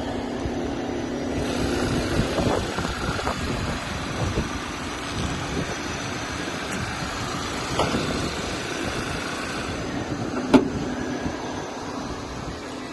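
Steady mechanical running noise of a car, with a steady hum that stops about two seconds in and a few sharp clicks or knocks, the loudest about ten and a half seconds in.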